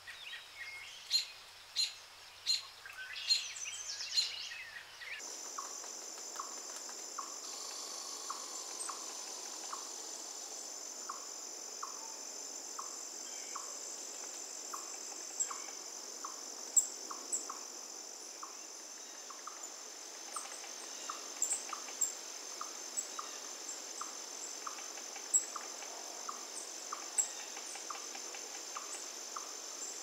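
Wild birds chirping with sharp calls for the first few seconds, then a change about five seconds in to a steady high-pitched insect drone, like cicadas or crickets. Over the drone a short lower call repeats a little more than once a second, with scattered sharp high chirps.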